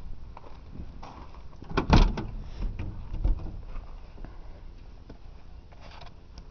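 A loud thud about two seconds in and a smaller knock about a second later, with light clicks and rustling of handling in between.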